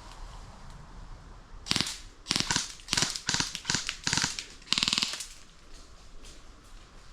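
Airsoft gun firing several short full-auto bursts of rapid shots over about three and a half seconds, starting a little under two seconds in.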